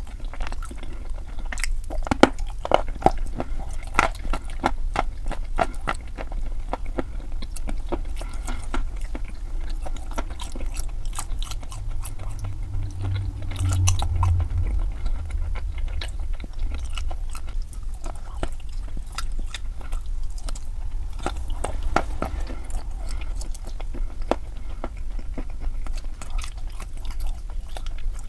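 Someone chewing crunchy chalk close to the microphone: a dense, irregular run of sharp crunches and clicks.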